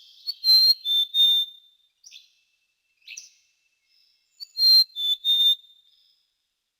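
Common quail calling its three-note song, given twice about four seconds apart, with a few faint short chirps in between.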